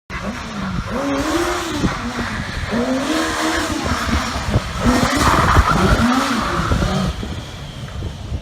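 Motorcycle engine revving, its pitch swinging up and down repeatedly in quick blips.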